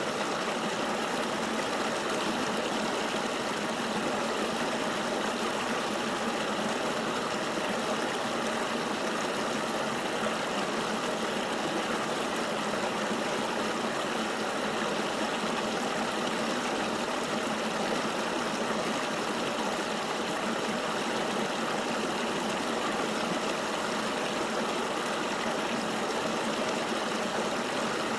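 Steady rushing of flowing river water: an even, unchanging hiss with no deep rumble.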